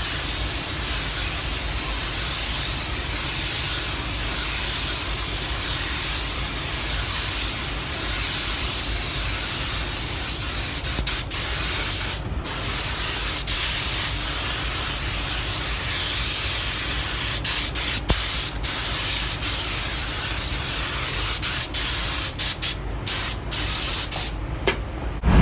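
Paint spray gun spraying a second coat of clear coat: a steady hiss of air and atomised lacquer, cut by a few brief stops, several in quick succession near the end.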